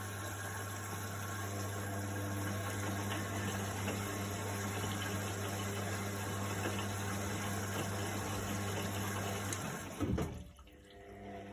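Indesit washing machine filling with water: a steady rush of inflowing water over a constant low hum. About ten seconds in, a knock and the water flow cuts off, and a quieter mechanical hum starts near the end as the machine begins the wash.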